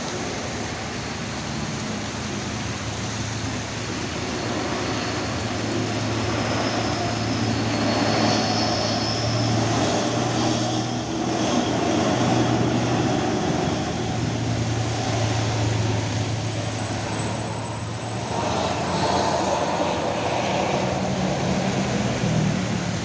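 Heavy trucks' diesel engines labouring up a steep climb at low, steady revs, rising and falling in loudness as they pass, over a constant hiss of heavy rain and wet road.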